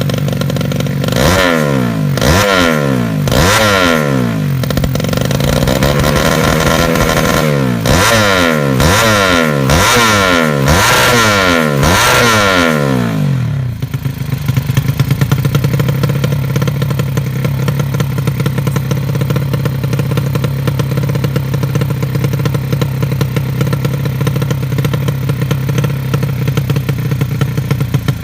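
Race-tuned Yamaha Jupiter 110 single-cylinder four-stroke motorcycle engine being blipped hard, a quick rev up and down about once a second for the first half, then dropping back to an uneven, lumpy idle.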